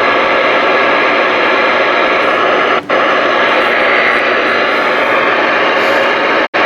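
Stryker SR-955HPC CB radio receiving on AM: a steady hiss of band static from its speaker. The static dips briefly about three seconds in and cuts out for an instant near the end.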